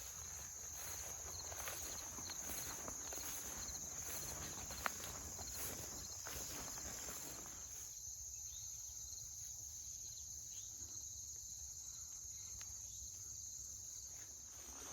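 Insects chirring in a steady high chorus. Over it, rustling and a few light knocks during the first half, dying away about eight seconds in.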